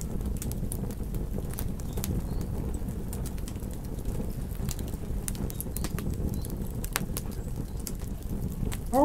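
Campfire crackling: a steady low rumble with scattered sharp pops and snaps, one louder pop about seven seconds in.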